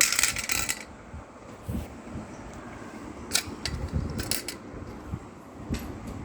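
Plastic toy parts of a Hot Wheels truck and track clicking and rattling as they are handled, with a quick run of clicks at the start and a few single clicks later.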